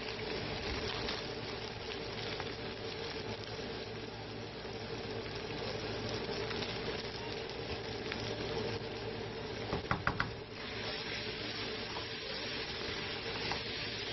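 Chicken and vegetables sizzling as they stir-fry in a wok, stirred with a wooden spoon. A quick run of three or four knocks comes about ten seconds in.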